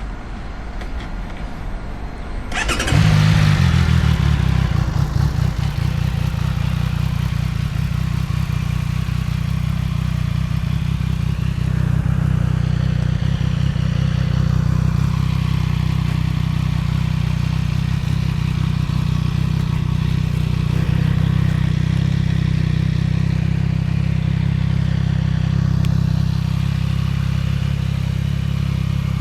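CFMOTO 675NK motorcycle on the road, its inline three-cylinder engine running under way, mixed with wind noise on the camera. Under three seconds in the sound jumps up sharply and then holds steady.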